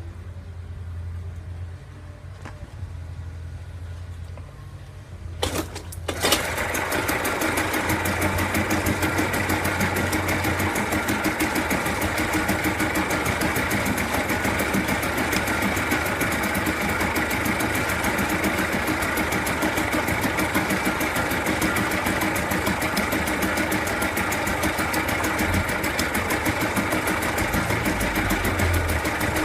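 Mercury 2.2 hp two-stroke outboard motor starting up about six seconds in, after two short sharp sounds, then running steadily at constant speed.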